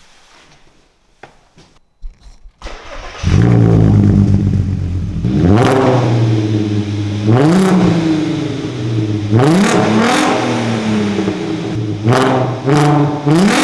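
Audi A3 3.2 VR6 engine, with a stage 1 tune and an exhaust that is straight-piped after the original downpipe, starting about three seconds in and then revved in about six sharp blips, its pitch climbing quickly and falling back to idle after each.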